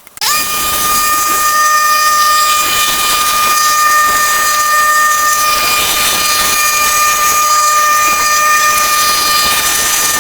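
A machine running with a steady high whine over a hiss, starting abruptly and holding one pitch.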